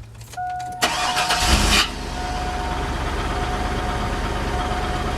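2000 GMC Yukon's V8 engine cranked over by the starter for about a second, catching and settling into a steady idle. A thin steady whine runs through the start and the idle.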